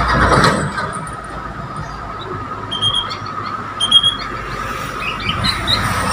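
A songbird giving short, high chirps, twice about a second apart around the middle and a few fainter ones after, over a steady high-pitched hum.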